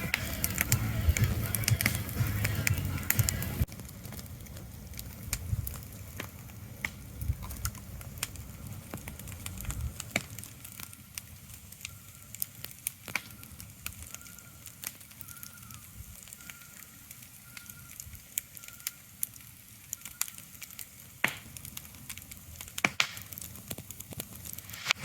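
Scattered sharp crackles and clicks over a low, steady ambient hiss. A louder low rumble underneath stops abruptly about three and a half seconds in, leaving the crackles quieter and sparser.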